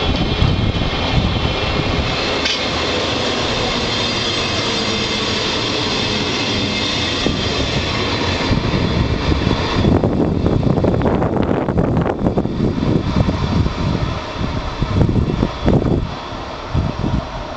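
Roslagsbanan narrow-gauge electric commuter train running past at close range, its motors and wheels sounding steadily, with a faint tone falling slowly as it slows on arrival. After about ten seconds the higher sound fades as the train draws away, leaving an uneven low rumble.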